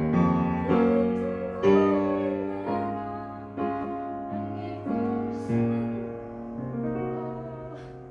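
Piano chords played slowly, about one a second, each struck and left to ring and fade. The playing thins out and dies away near the end.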